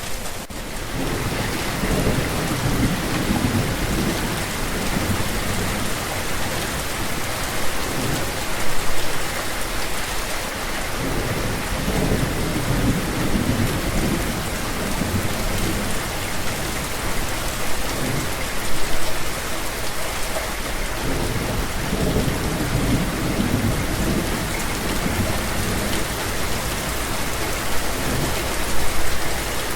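Rain falling steadily, with low thunder rumbles rolling in three times, about ten seconds apart.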